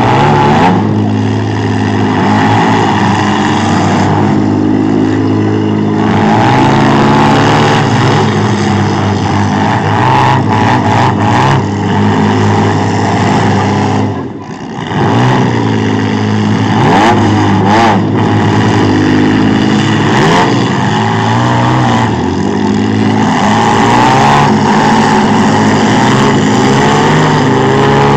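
Several demolition derby trucks and SUVs running their engines hard, revving up and down as they drive and hit each other, with a brief drop in loudness about halfway through.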